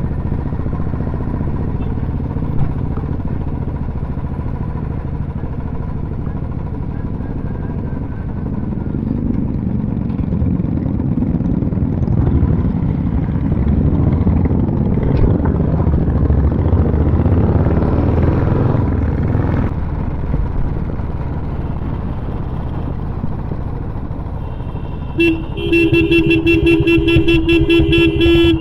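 Royal Enfield motorcycles running on the road, a steady low rumble that swells and fades in the middle. Near the end a vehicle horn starts honking in rapid, even beeps for about three seconds.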